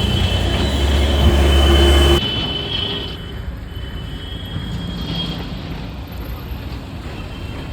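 Vehicle and road noise: a loud, steady low engine rumble that cuts off suddenly about two seconds in, followed by quieter traffic noise.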